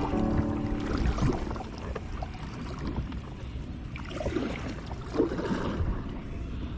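Water splashing and lapping around a kayak, with a few louder splashes about four and five seconds in. Background music fades out in the first second.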